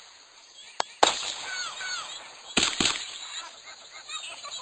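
Consumer fireworks going off: sharp bangs in two pairs, a light pop then a louder bang about a second in, and two more bangs in quick succession later on.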